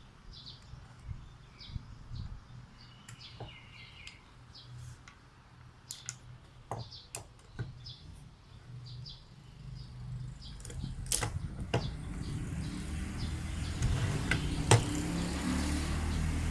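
Scattered light clicks and taps of small airsoft gearbox parts being handled and taken apart. From about twelve seconds in, a steady hiss and low hum come up beneath them.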